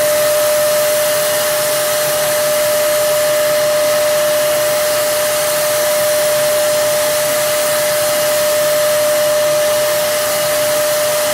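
Turbine spray gun from a Plasti Dip kit running steadily, spraying the rubber coating: a loud rush of air with a steady whine over it. It cuts off suddenly at the very end.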